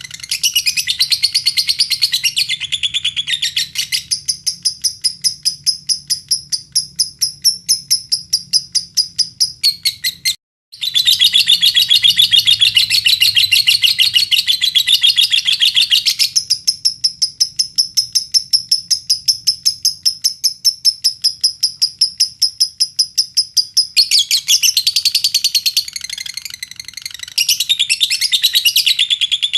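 Lovebirds chirping in a long, fast run of evenly repeated high chirps, about three or four a second, with denser stretches of overlapping chatter. A lure recording meant to set other lovebirds singing. The sound cuts out for a moment about ten seconds in.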